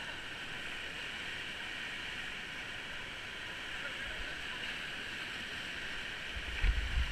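Steady rush of river water. Low thumps come in near the end.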